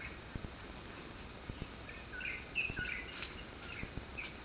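Small birds chirping in short, repeated calls, with faint irregular low knocks underneath.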